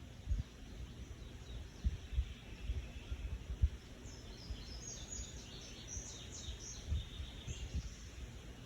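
Birds chirping in short high notes, mostly in the second half, over irregular low thumps and bumps.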